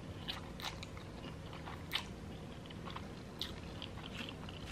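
A person chewing food close to the microphone: soft, irregular wet mouth clicks, one a little sharper about two seconds in.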